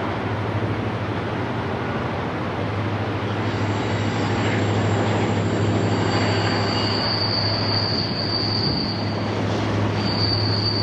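Double-stack intermodal freight train crossing a steel truss bridge: a steady low noise of wheels on the rails, with high-pitched wheel squeal setting in about a third of the way through. A second, lower squeal joins around the middle, breaks off briefly and returns near the end.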